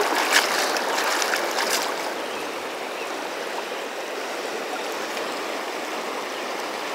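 Steady rush of river current around a wading angler, with a few light clicks in the first two seconds.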